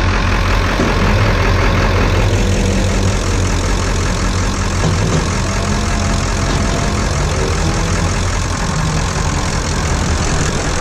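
Pickup truck engine running with a steady low rumble and road noise.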